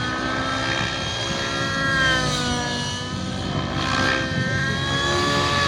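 Radio-controlled helicopter in flight: a steady motor and rotor whine that dips in pitch about halfway through, then rises again.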